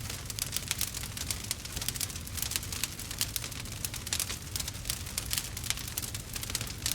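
Burning wood fire crackling and popping, with many quick irregular snaps over a low steady rumble.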